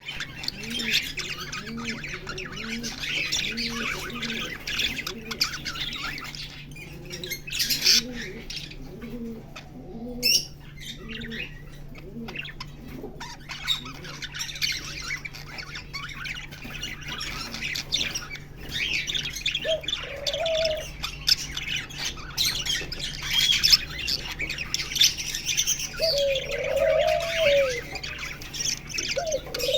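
Many birds calling at once: dense high twittering and chirping throughout, with short, low rising-and-falling calls repeated about twice a second in the first half and a few louder, longer calls near the end.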